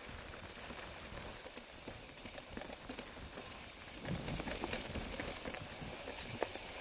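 Snow crunching in two stretches of irregular crackling, separated by a quieter pause of about two seconds.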